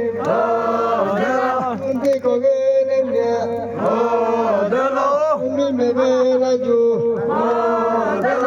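Voices chanting a folk song over a steady held drone note, the sung phrases rising and falling and repeating about every four seconds.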